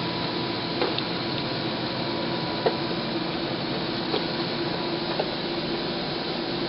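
A steady mechanical hum and hiss with a faint held tone, broken by four or five faint clicks.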